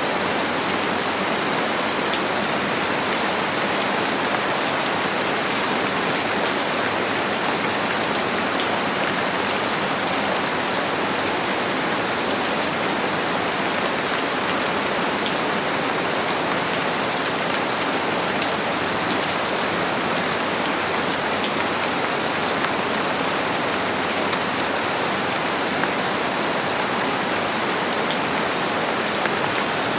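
Steady heavy rain falling and pattering on surfaces, an even hiss with scattered drop ticks and no thunder.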